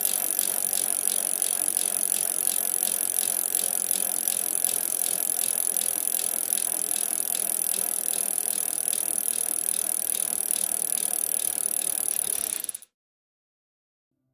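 A steady, fast rattling of evenly repeated clicks, several a second, that cuts off suddenly about two seconds before the end, leaving silence.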